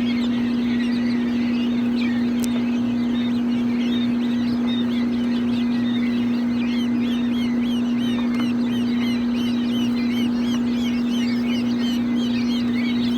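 A crowd of baby chicks peeping continuously, many short high chirps overlapping several times a second, over a strong steady low hum.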